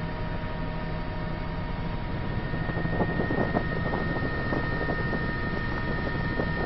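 Helicopter cabin noise: a steady engine and rotor drone with a thin, high, steady whine over it.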